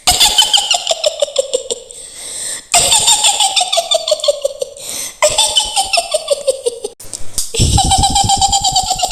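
A high-pitched witch's cackle in the style of Mak Lampir: four long laughs in a row, each a fast run of 'hi-hi-hi' syllables sliding down in pitch.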